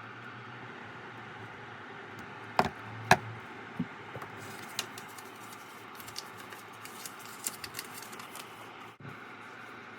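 Small hand tools working wires at a workbench: two sharp clicks a little over two seconds in, then a scatter of light ticks and taps, over a steady low hum.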